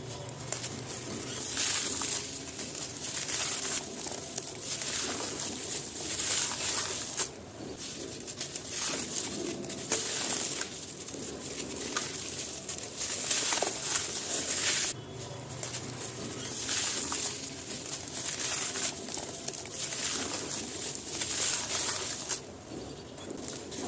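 Gritty material being crumbled and crushed by hand, a dense crunchy crackling that comes in repeated bursts with short pauses between them.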